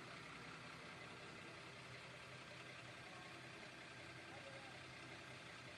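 Faint, steady sound of a vehicle engine idling, a low hum under even background noise.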